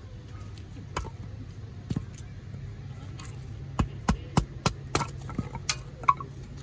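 Firewood being chopped or split: sharp wooden strikes, two about a second apart, then a quick run of about three strikes a second.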